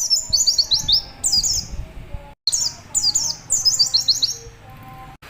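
White-eye (pleci) calling in rapid runs of short, high, downward-slurred 'wit' notes, several a second, with only short pauses between the runs.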